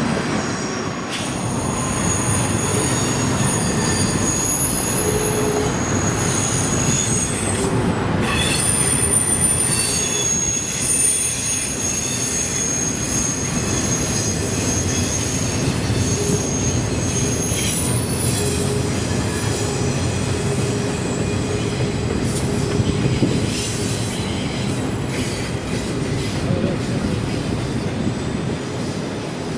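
A train rolling past, its steel wheels squealing in high, thin tones that come and go over a steady rumble of wheels on rail.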